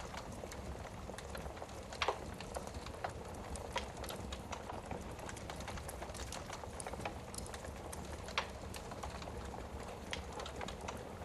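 Wood fire burning in a fireplace: a steady low rumble and hiss with irregular crackles and pops, the sharpest about two seconds in and again past eight seconds.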